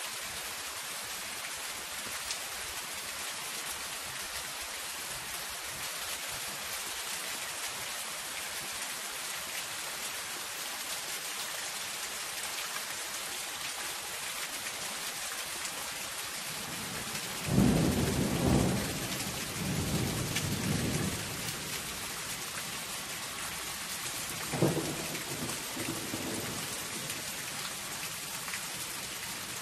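Steady rain falling on a zinc roof, an even hiss. Just past halfway, thunder rumbles for about three seconds, the loudest thing here, and a shorter thunderclap follows about seven seconds later.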